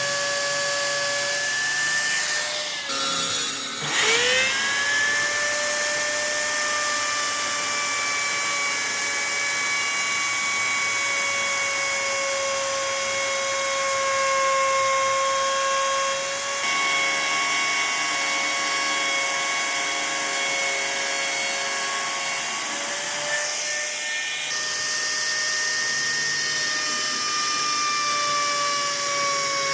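An electric power tool's motor running with a steady whine over a hiss. About three seconds in, its pitch drops briefly and then climbs back as the motor spins up again.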